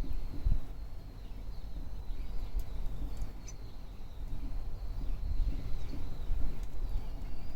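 Small wood bonfire burning, with a few faint sharp crackles over a low, uneven rumble.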